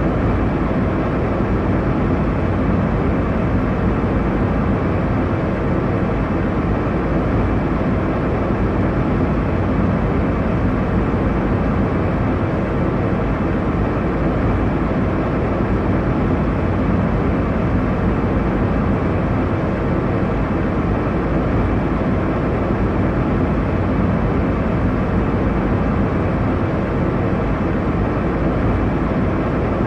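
Airliner cabin noise in flight: a steady, even rumble and hiss of engine and airflow, strongest in the low and middle range, without change.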